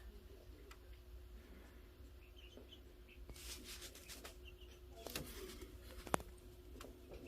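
Faint high peeps of chicks, with rustling and scratching in the nest, and one sharp click about six seconds in.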